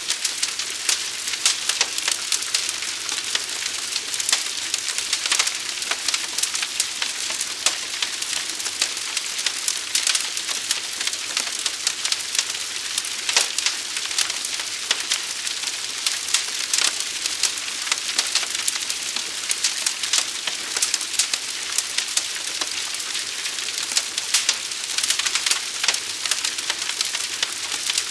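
Fire burning with dense, continuous crackling and popping over a steady hiss.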